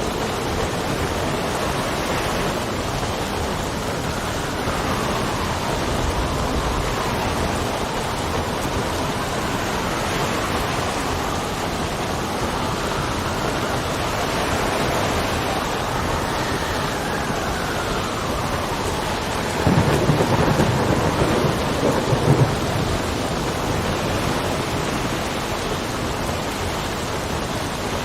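Steady heavy rain with wind howling and wavering in pitch, and a roll of thunder about twenty seconds in that lasts a few seconds.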